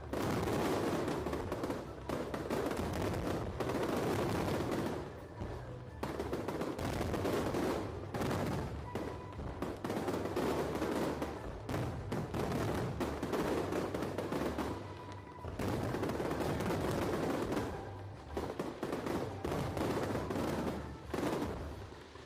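Aerial fireworks going off in dense, rapid volleys of bangs and crackle, coming in waves with brief lulls every few seconds.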